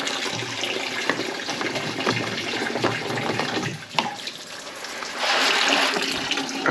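Engine coolant gushing out of an opened plastic drain screw and splashing down, with a sharp knock about four seconds in and a louder rush near the end.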